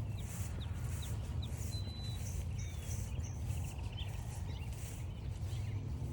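Wild songbirds calling: several short chirps, a thin whistled note and a brief trill, over the regular crunch of footsteps on a trail at about two steps a second and a steady low rumble.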